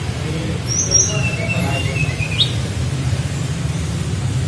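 A small songbird giving a thin, high whistled phrase: quick upward-flicked notes, then a longer level whistle ending in a sharp rising note, typical of a flycatcher's flute-like 'nyuling' song. A steady low rumble runs underneath.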